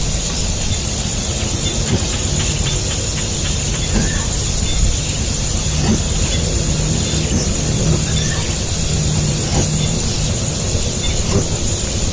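Nestling birds begging for food, a continuous high, hissing squeal.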